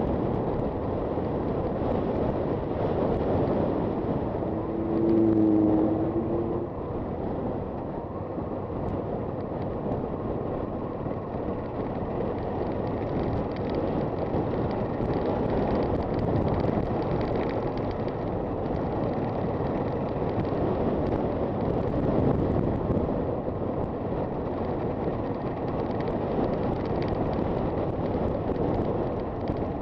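Honda FT400 motorcycle running steadily on the road, engine and road noise with wind on the microphone. A brief pitched tone stands out about five seconds in.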